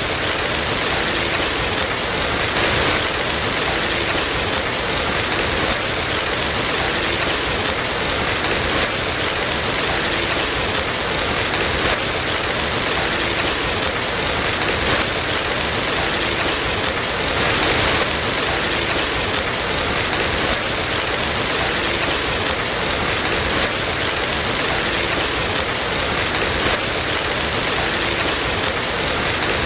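Steady, dense rain pattering on a surface, with slight swells in loudness about 3 seconds in and again near 18 seconds.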